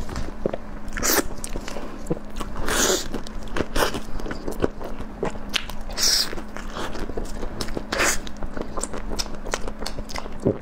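Close-miked eating: wet chewing and lip smacks, with a sharper bite or smack every second or two as soft food is bitten and chewed.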